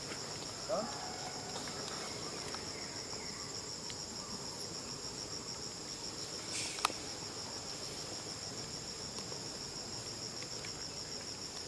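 Steady, high-pitched chorus of insects, a continuous pulsing trill. A brief squeak comes about a second in, and a single sharp click about seven seconds in.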